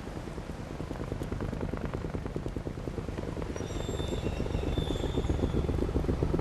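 Helicopter rotor chop overhead, a rapid, even pulsing that grows steadily louder as it approaches. It does not sound the way a helicopter should: a sign of an aircraft in trouble.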